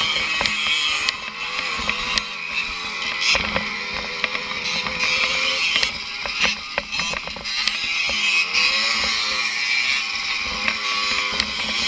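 Small two-stroke motorbike engine running under way, its pitch rising and falling with the throttle, with repeated clattering knocks and rattles from the bike over the bumps.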